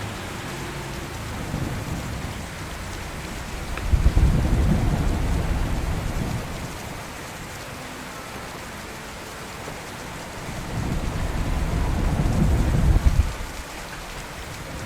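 Steady rain with two rolls of thunder. The first starts with a sudden crack about four seconds in and rumbles away over a couple of seconds. The second builds from about ten seconds in and breaks off sharply near the end.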